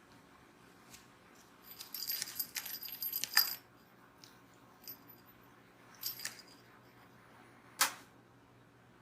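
Small metal bell jingling in short bursts as a kitten plays with a toy: a cluster about two seconds in, shorter jingles around five and six seconds, then a single sharp knock near the end.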